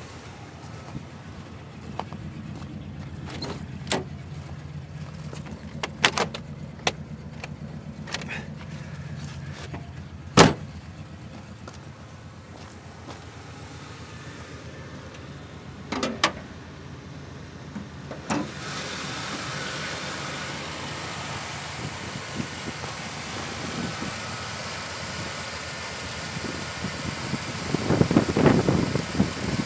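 Rebuilt small-block Chevy V8 of a 1977 Monte Carlo idling steadily, with several clunks and knocks as the hood is released and raised, the loudest a sharp knock about a third of the way in. About two-thirds in, the hood comes up and the engine's running sound becomes fuller and hissier.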